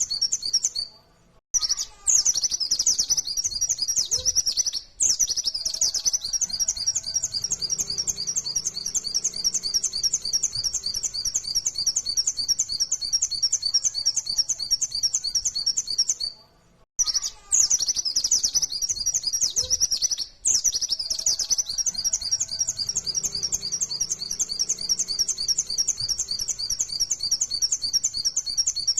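White-eye (pleci) singing a fast, high, continuous twittering song in the rapid-fire 'nembak' style. It breaks off briefly a few times, and the same passage comes round again about every fifteen seconds.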